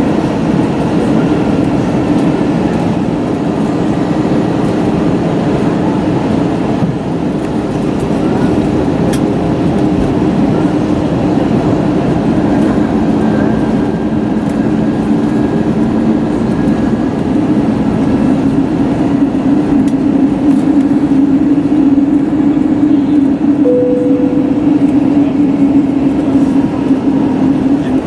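Steady cabin rumble of an Airbus A321neo rolling on the ground, with a low engine hum that grows a little louder in the last third.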